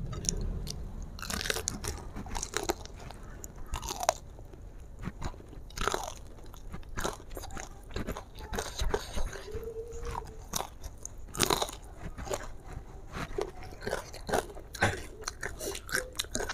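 Close-miked biting and chewing of crispy battered fried chicken: the coating crunches in irregular sharp crackles.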